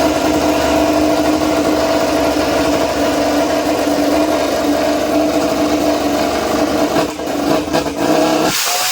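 MotoGP race motorcycle engine running at steady high revs, with a constant pitch. The low rumble drops away abruptly near the end.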